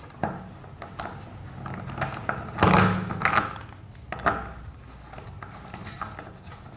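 Clicks and knocks of a washing machine trolley's wheels and frame parts being handled and fitted, with a louder rubbing scrape about two and a half seconds in and a sharp knock near four seconds.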